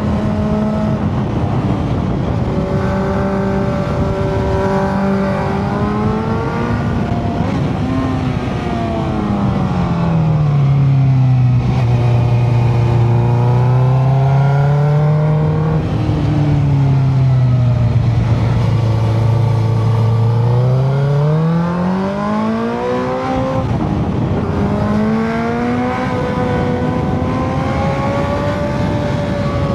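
Motorcycle engine running under way, over a steady rush of wind. Its note drops to a lower, louder pitch for about ten seconds in the middle, then climbs back up.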